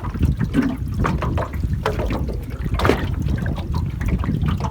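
Water splashing and dripping around a small boat as a gill net is hauled in from the water, over a heavy rumble of wind on the microphone.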